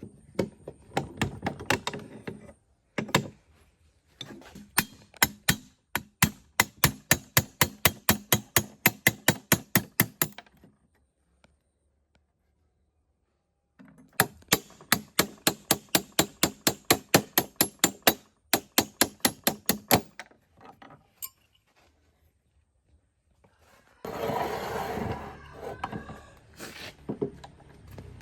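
Rapid, evenly spaced sharp knocks, about five a second, in two runs several seconds long with a silent break between them, then a short burst of rough scraping noise near the end.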